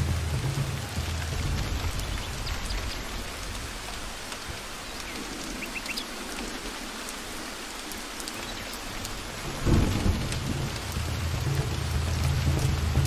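Steady rain falling in a forest, with low rolling thunder. The rumble dies away midway, then a sudden loud thunder crack about ten seconds in brings it back.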